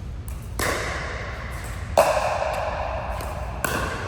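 A rally of sharp racket-and-ball strikes, one about every one and a half seconds, three in all. Each hit is followed by a ringing tone that lasts until the next one, in a large hall's echo.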